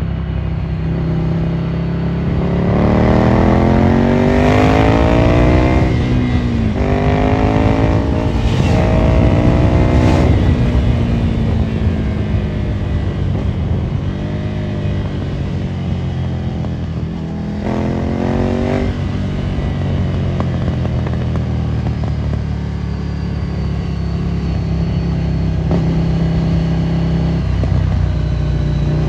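Ducati Monster 797's air-cooled L-twin through a Termignoni exhaust, accelerating hard through the gears: the engine note rises and drops back with each upshift, three times in quick succession a few seconds in. It pulls up once more past the middle, then runs steadily at a lower pitch.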